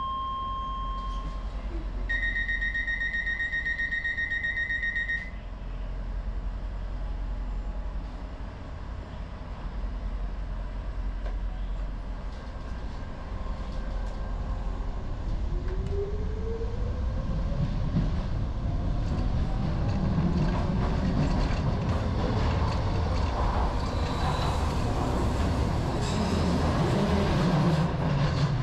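Docklands Light Railway train: a short beep, then a steady door-closing alarm for about three seconds. Some ten seconds later the train pulls away, the whine of its traction motors rising in pitch, and wheel and running noise grow louder as it gathers speed.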